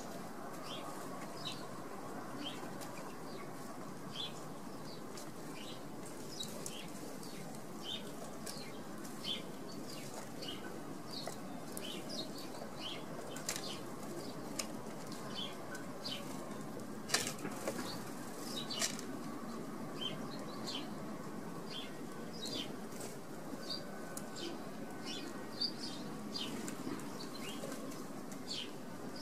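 Small garden birds chirping, with many short, high chirps scattered throughout over a steady background noise. A sharper, louder flutter or click comes about seventeen seconds in.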